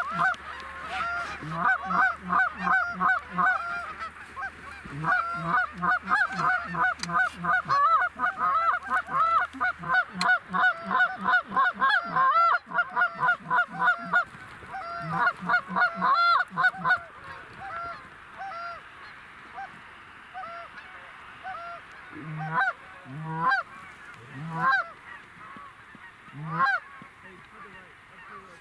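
Goose honking: rapid, overlapping honks for about the first seventeen seconds, then thinning to scattered single honks.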